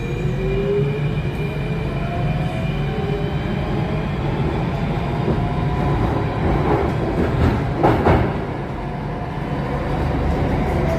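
Alstom Metropolis C830 metro train heard from inside the car as it pulls away: the traction motors' whine rises in pitch while it speeds up over a steady wheel-on-rail rumble. About eight seconds in there is a brief louder burst of rattling noise.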